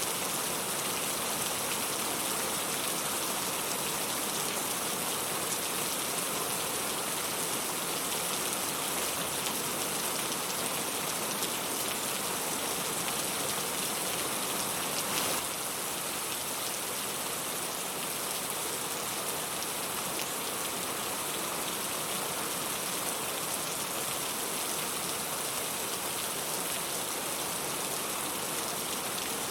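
Steady rain: an even hiss of falling drops, dipping slightly in level about halfway through.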